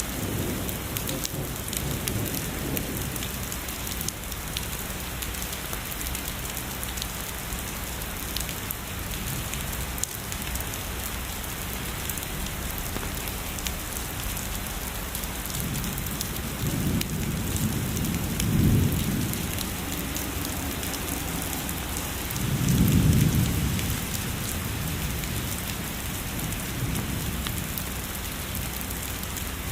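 Steady heavy rain pattering on surfaces, with two low rumbles of distant thunder: one swelling about two-thirds of the way in, a louder one a few seconds later.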